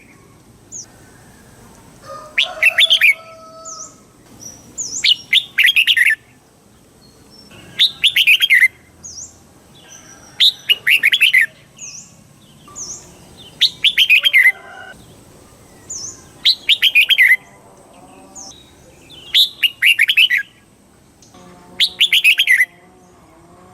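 Red-whiskered bulbul singing the same short, loud, chirpy song phrase again and again, about every three seconds.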